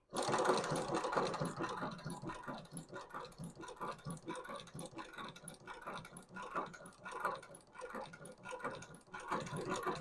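Model 7360 long-arm shoe-repair sewing machine with a large shuttle stitching, its needle and shuttle mechanism making a rapid, repeating mechanical clatter. It is loudest in the first second or so.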